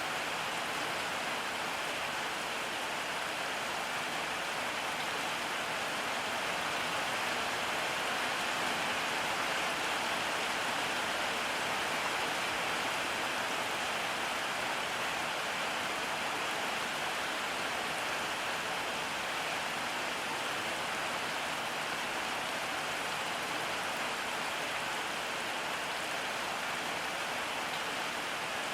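Steady rain falling, an even hiss of many drops with no let-up or change in strength.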